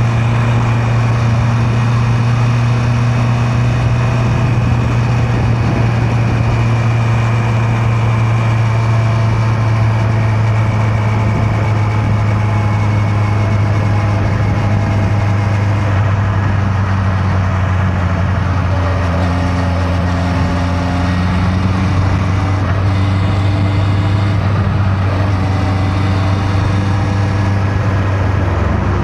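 Honda CB650R's inline-four engine running steadily while riding, its note holding nearly constant and drifting slightly lower over the first half.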